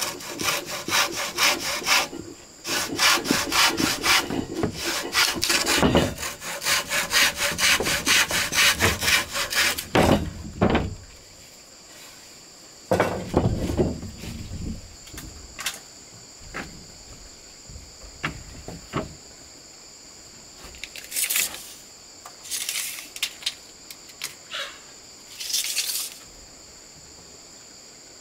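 Hand saw cutting through wood in quick, regular back-and-forth strokes for about the first ten seconds, then stopping. Scattered knocks and scrapes of handled wood follow, over a steady high insect buzz.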